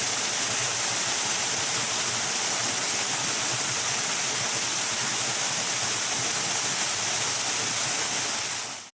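Waterfall, water falling steadily as an even, unbroken hiss that fades out just before the end.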